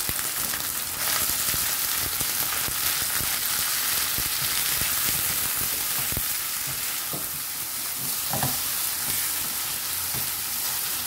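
Thin beef slices sizzling in oil and peanut barbecue sauce in a nonstick frying pan, cooked quickly over high heat. A utensil stirs them, with scattered knocks and scrapes against the pan, and the sizzle grows louder about a second in.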